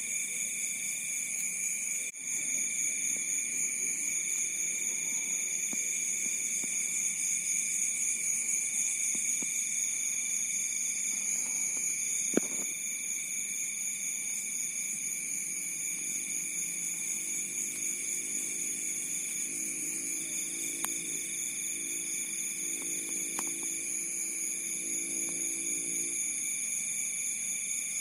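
Steady chorus of crickets singing: several continuous high-pitched trills, with one more insect trilling in stretches of a couple of seconds at a time. A single sharp click sounds about twelve seconds in.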